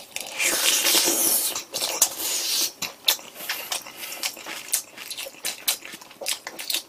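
Close-miked chewing of a big mouthful of breaded pork cutlet with kimchi fried rice and kimchi: a loud crunching, noisy stretch in the first couple of seconds, then wet smacks and mouth clicks as the chewing goes on.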